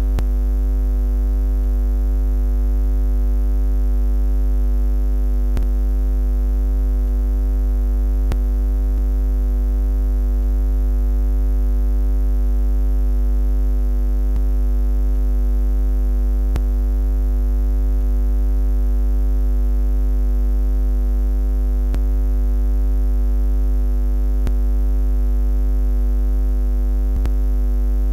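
Steady low electrical buzz, a constant deep hum with a nasal overtone that never changes in pitch or loudness.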